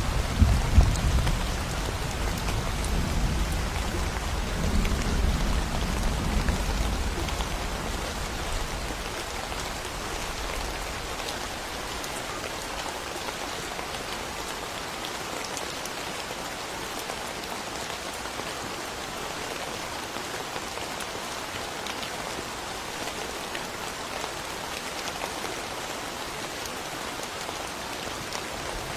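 Steady rain falling, with a low rumble of thunder dying away over the first several seconds.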